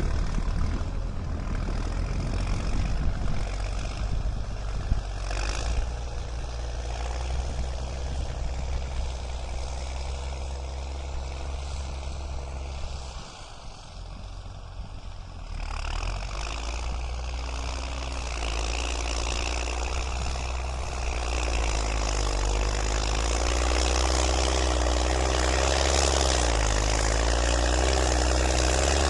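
New Holland TS6.125 tractor's diesel engine running while pushing soil. It eases off briefly about halfway through, then picks up again and grows louder, its pitch wavering as it works under load near the end.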